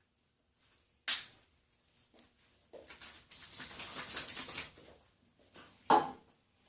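Handling at a microwave oven: a sharp click about a second in, about two seconds of rustling as things are moved and set inside, and another sharp click near the end.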